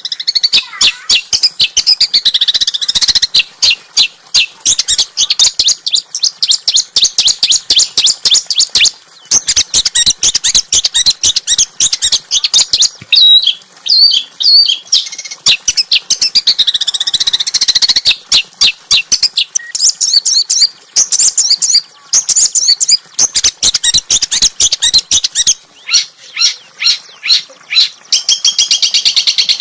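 A small songbird's rapid, sharp, high-pitched chirping in fast runs of harsh 'shot' notes with brief pauses. It is a recorded master song played to train white-rumped shamas to sing.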